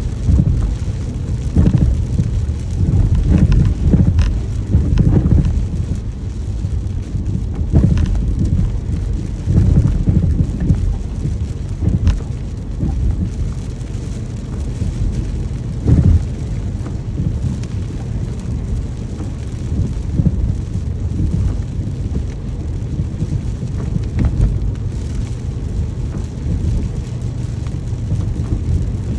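Heavy rain falling steadily, with a deep rumble that swells and fades and a few sharper drop hits.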